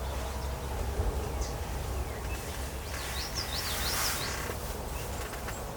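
Small birds chirping, with a quick run of high zigzag notes about three seconds in, over a steady hiss of outdoor background noise.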